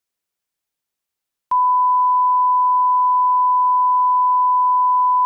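A single electronic beep tone at one steady pitch. It starts abruptly about a second and a half in and holds unchanged.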